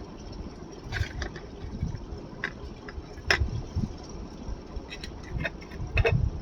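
Close-up chewing of rice and curry: soft low thuds with scattered wet mouth clicks and smacks, a few sharper ones about a second in, near the middle and near the end.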